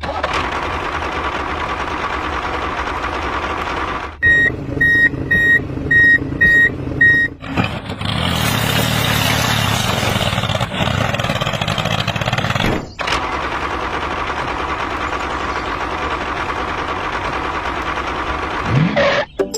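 Vehicle reversing alarm beeping about twice a second, six beeps in all, between stretches of a steady mechanical hum. Between the beeps and the second stretch of hum there is a louder, rougher noise for about five seconds.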